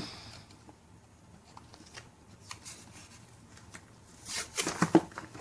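Rustling, crinkling and small plastic clicks of a Kinder Surprise egg's wrapper, capsule and toy parts being handled, with a louder burst of rustling and clicks about four and a half seconds in.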